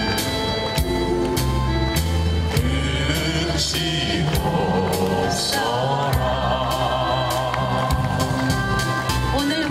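A song with a singing voice over an instrumental backing with a steady beat. The voice holds wavering, vibrato notes in the middle stretch.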